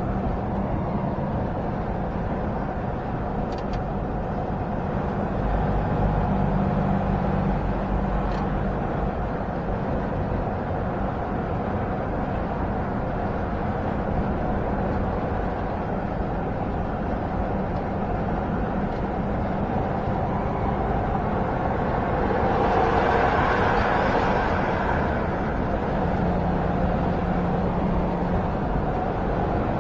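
Inside a semi-truck cab while driving: a steady diesel engine hum under continuous road and wind noise, with a brief swell of rushing noise about three-quarters of the way through.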